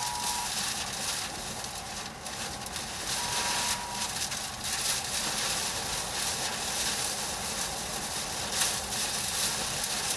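Storm noise from a tornado's passage: a steady rush of wind and rain around the vehicle, with irregular gusts. A short, steady electronic beep sounds at the start and again about three seconds in.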